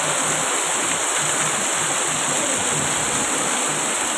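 Heavy downpour: a dense, steady hiss of torrential rain.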